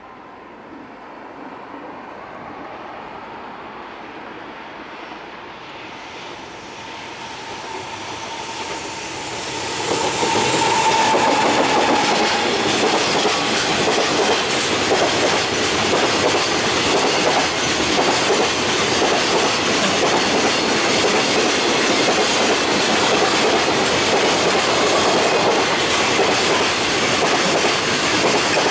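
JR Freight EF200 electric locomotive hauling a container freight train approaches and passes. A rising rumble with a steady whine grows loud about ten seconds in as the locomotive goes by, followed by the steady clatter of the container flat wagons' wheels.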